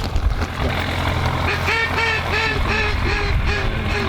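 A run of evenly spaced mallard-style quacks, about three a second, starting about a second and a half in, over a steady low rumble.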